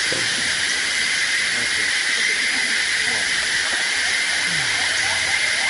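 Steady, high-pitched drone of jungle insects, continuous and unchanging, with a stronger band of pitch running through it.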